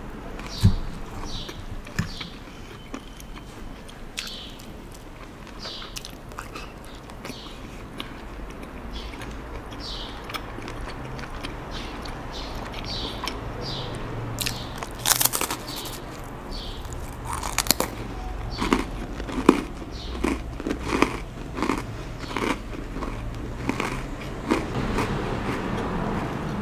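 Close-miked eating sounds: a sharp knock near the start, then repeated wet chewing clicks from a mouthful of salad. About fifteen seconds in comes a loud crisp bite into a cracker, followed by steady crunchy chewing.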